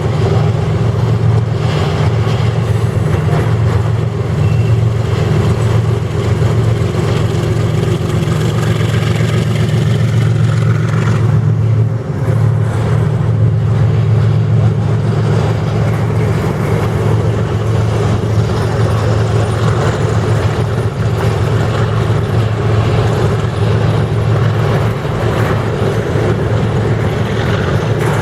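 Diesel train locomotive running close by, a loud, steady deep engine drone with rail noise over it.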